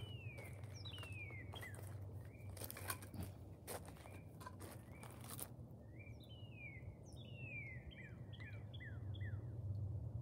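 Wild birds singing: repeated short whistled notes that slide downward in pitch, coming in quick runs, busiest in the second half. During the first half, crunching footsteps on gravel, over a steady low rumble.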